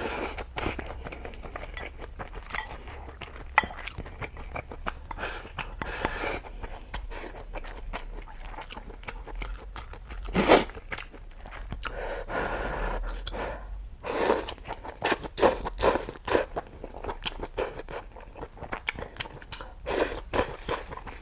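Close-miked chewing and biting of food, with crunching and wet clicks throughout. There is a louder bite about halfway through and a run of sharper crunches a few seconds later.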